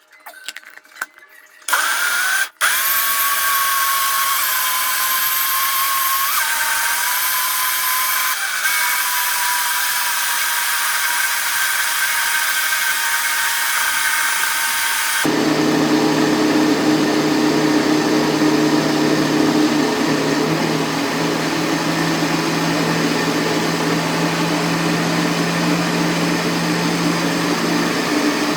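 Electric countertop blender running continuously, mixing a cake batter of flocão (corn flakes flour), sugar, flour, milk, oil and coconut. The motor spins up with a high whine just after it starts, and about halfway through its sound changes to a deeper, heavier hum.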